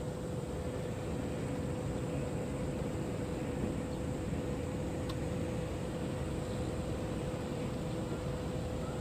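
Boat diesel engine running steadily: an even low drone with a constant hum on top.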